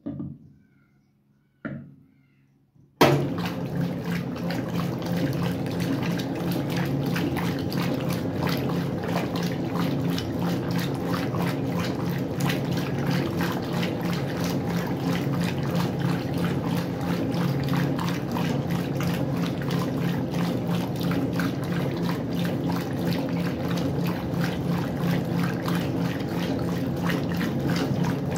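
Westinghouse washing machine filling with water: two short knocks, then about three seconds in a sudden, steady rush of water with a low hum under it.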